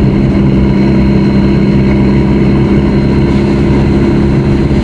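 Mk2 Volkswagen Jetta's 1.6-litre turbo-diesel engine running steadily while driving, heard from inside the cabin as an even drone over a low rumble.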